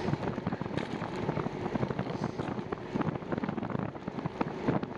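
Wind buffeting the microphone while riding a bicycle: a rough, gusty rushing noise with constant crackle.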